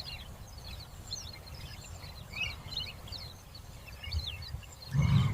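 Many small birds chirping, short calls that bend up and down, over a low steady rumble that swells briefly near the end.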